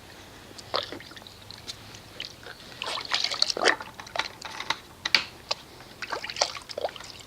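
A hand swishing through a bucket of water mixed with car wash soap, with irregular small splashes and drips as the soap is stirred in.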